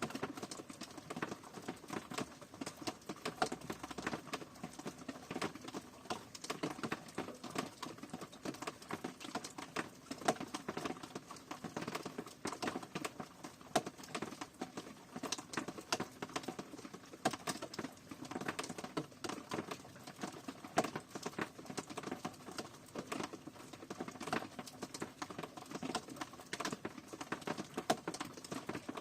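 Rain pattering: a dense, irregular stream of separate drops ticking and tapping, with no let-up.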